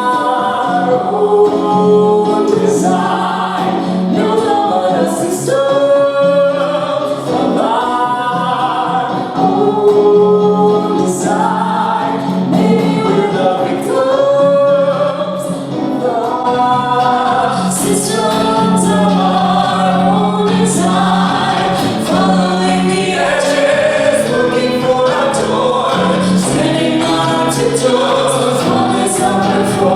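Voices singing a song from a small stage musical, with sustained accompaniment underneath.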